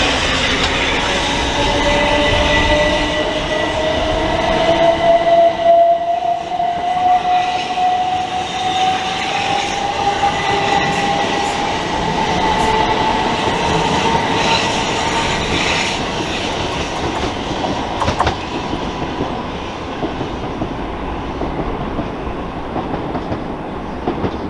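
Electric multiple unit pulling away, its traction motors whining in a smooth rise in pitch over about a dozen seconds, then fading as it leaves. A sharp click comes about 18 seconds in.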